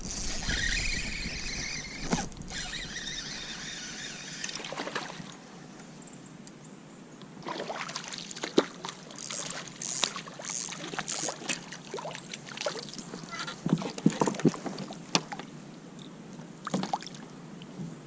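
Splashing water with clicks and knocks on a kayak, as a small smallmouth bass is reeled in and landed. A noisy wash of water comes first, then a scatter of sharp knocks and splashes in the second half.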